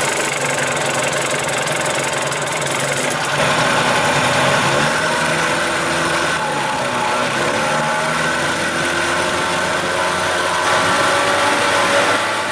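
1975 Evinrude 40 hp two-stroke outboard motor running steadily, getting louder about three seconds in.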